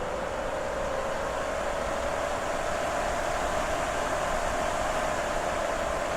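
Steady wind noise with a howling tone that rises slowly in pitch and grows a little louder.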